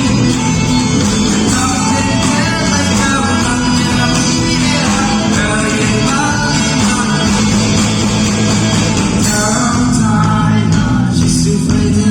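Live gospel band music with singing, electric guitar and bass, loud and steady.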